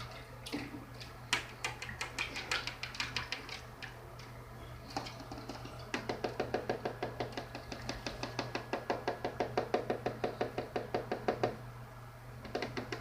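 Runs of quick, dry taps or clicks. They are scattered in the first few seconds, then come as a steady run of about five or six a second through the middle and latter part, stopping shortly before the end.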